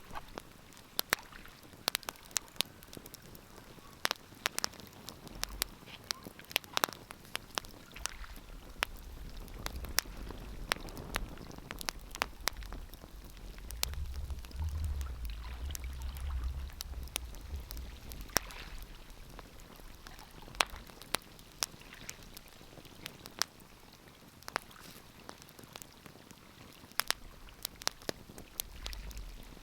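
Wood fire crackling in a fireplace, with frequent irregular sharp pops and snaps. A low rumble swells in the middle, peaking a little past halfway, then fades.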